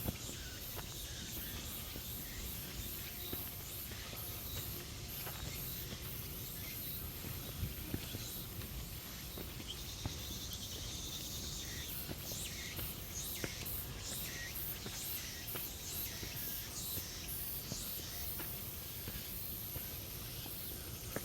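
Insects chirring high-pitched in a fast pulsing rhythm, with a few short knocks and a low rumble underneath.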